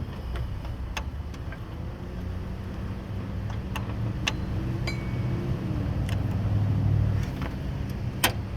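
Scattered sharp metallic clicks and clinks of the tensioner and tools being handled under the hood, over a steady low rumble that swells and fades again a little after the middle.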